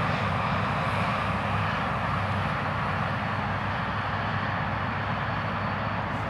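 Electric RC model plane's brushless outrunner motor and propeller running steadily overhead.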